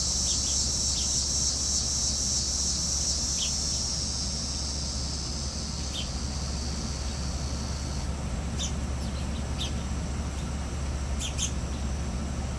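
Small birds giving short, scattered chirps, more of them in the last few seconds, over a steady high-pitched insect drone that cuts off suddenly about two-thirds of the way through.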